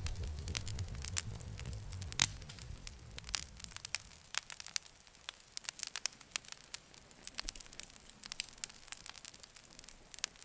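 Campfire burning, with frequent sharp crackles and pops of burning wood, one louder pop about two seconds in. A low rumble of flame is under the crackling at first and fades out within the first few seconds.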